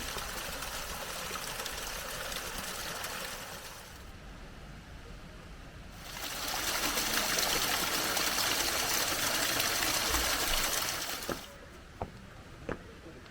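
Running water, heard as a steady rush in two stretches, the second louder, followed by a few light clicks near the end.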